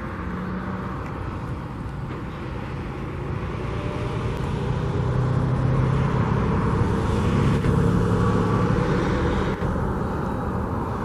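Road traffic: a motor vehicle's engine and tyres pass close by, growing louder to a peak about six to eight seconds in, then easing off.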